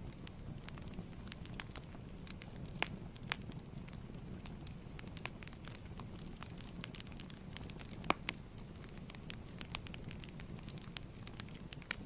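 Wood fire crackling steadily in a fireplace, with irregular sharp pops over a low rumble of the flames; one louder pop comes about eight seconds in.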